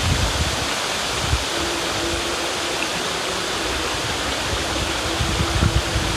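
River water rushing steadily, with brief low rumbles now and then, most of them near the end.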